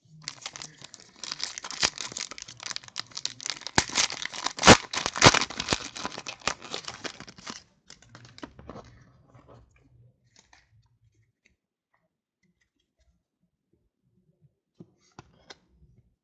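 Foil wrapper of a football trading-card pack being torn open and crinkled, with sharp snaps among the rustling. It stops about seven and a half seconds in, and a few faint rustles follow.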